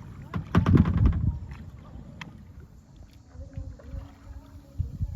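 Kayak paddle strokes splashing in the river, loudest and closest about a second in, then a sharp knock and softer strokes later.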